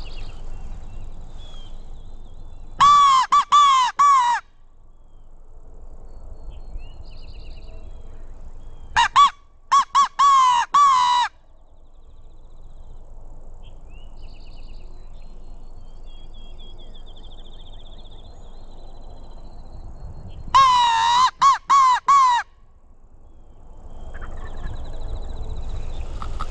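Mouth-blown crow locator call, blown loud in three bursts of several quick caws each, about 3, 9 and 20 seconds in. The calling is meant to make a distant gobbler shock-gobble and give away where he is.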